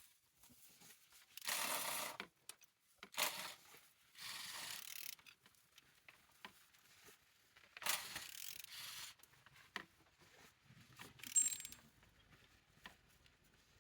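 A used engine being turned over by hand at the crankshaft with a ratchet wrench, checking that it turns freely: about five spells of ratchet clicking and mechanical turning noise separated by short pauses.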